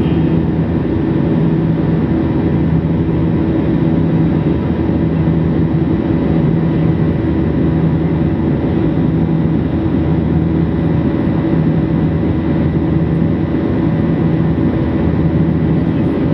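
Airliner cabin noise in flight: the jet engines and airflow make a steady loud rumble, with a low engine hum that swells and fades every second or so as the engines beat against each other.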